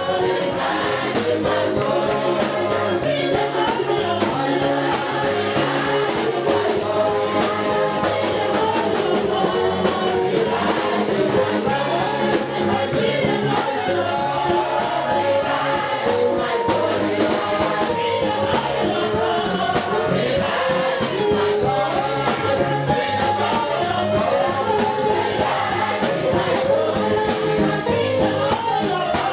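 Live gospel worship music: a congregation and choir singing together over a band with a steady bass line and busy percussion.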